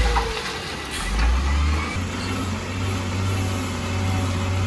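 Engine of heavy road-construction machinery running, a steady low hum that shifts briefly in the first two seconds and then holds even.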